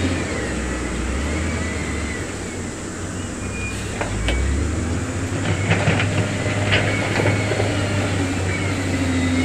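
Diesel engine of heavy construction equipment running and working, its low drone shifting in pitch, with a few sharp clanks between about four and seven seconds in.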